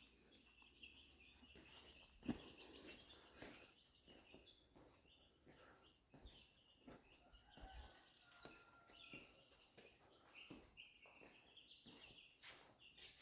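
Faint, repeated bird chirping, with scattered light clicks and taps.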